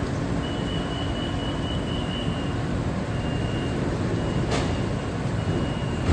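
BTS Skytrain EMU-B1 train running, a steady rumble of wheels and motors, with a thin high-pitched squeal held for about two seconds near the start and recurring three more times briefly.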